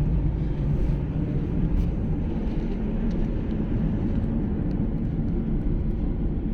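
Steady low rumble of a vehicle's engine running at a constant pace.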